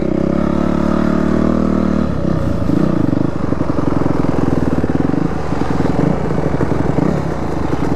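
Dirt bike engine running under way, its note held steady for about two seconds, then rising and falling with the throttle.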